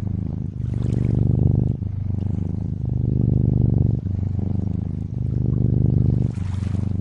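Domestic cat purring steadily, a low buzzing hum that swells and eases about every one to one and a half seconds as the cat breathes in and out. Lake water trickles and laps faintly underneath, with a brighter splash of water near the end.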